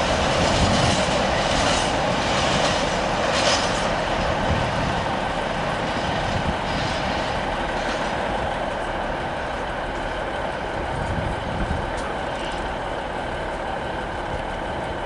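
Freight train of empty container flat wagons rolling along the track, the wheel noise slowly fading as the train draws away.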